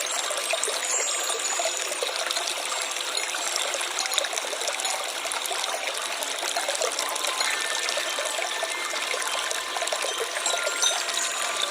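Stream water flowing and trickling in a steady, unbroken babble.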